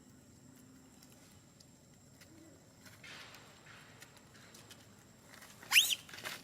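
An animal's short, high call sweeping sharply upward in pitch, with a second brief rising note, near the end, over faint background.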